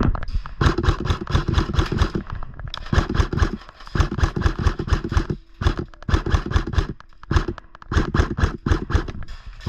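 Airsoft guns firing in rapid full-auto bursts: about six strings of fast clicks separated by short pauses.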